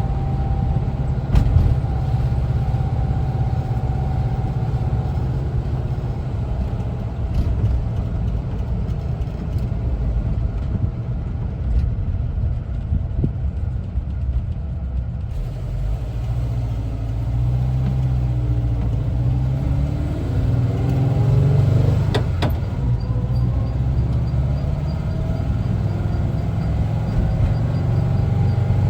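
The air-cooled flat-four engine of a 1974 Volkswagen Westfalia camper bus runs under way, with a steady low rumble of engine and road noise. From about halfway, the engine note rises in pitch and drops back a few times as the bus accelerates.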